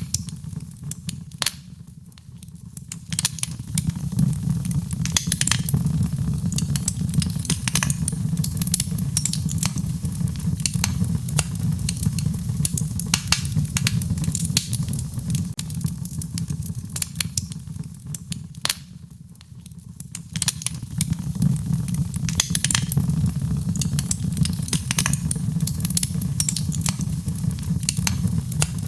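Wood fire in a fireplace crackling, with frequent irregular sharp pops over a low, steady rumble of flames. It eases briefly quieter twice, about two seconds in and again near the middle.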